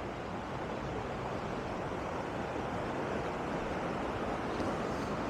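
Steady rushing of a cascading stream and waterfall over bedrock, growing slightly louder.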